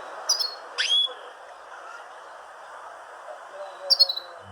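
Small birds chirping: a few short, high chirps about a second in, one sweeping sharply down, and another quick cluster near the end, over a steady background hiss.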